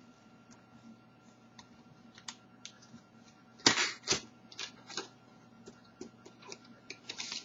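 A speed cube's box and packaging being opened and handled: scattered light clicks and taps, with a louder rustling burst about three and a half seconds in and another near the end.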